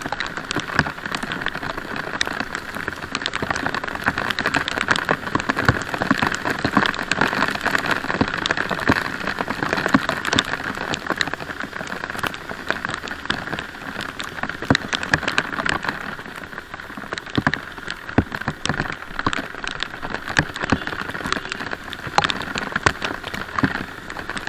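Heavy rain, a steady hiss scattered with many sharp ticks as drops strike close to the microphone.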